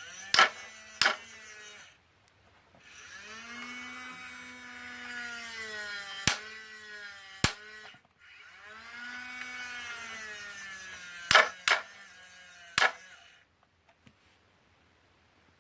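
Small electric motor and gears of a knock-off Hobby Engine toy wheel loader whining in two runs, the pitch rising and then falling each time, with sharp plastic clicks and clacks in between.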